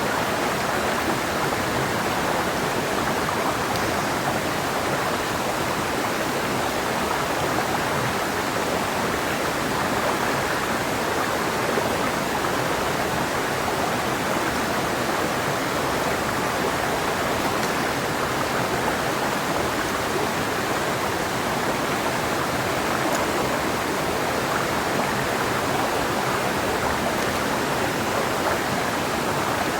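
Clear mountain river flowing over stones: a steady, even rush of water.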